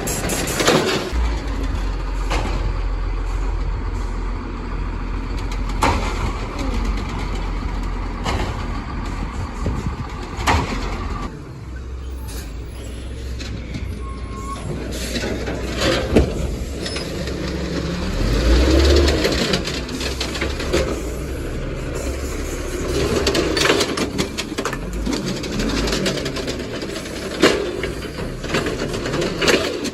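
Garbage truck engine running, with scattered bangs and clanks of metal and refuse being handled.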